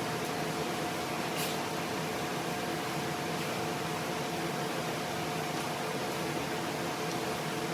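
Steady machine hum and hiss with a constant whine, and a faint tick about a second and a half in.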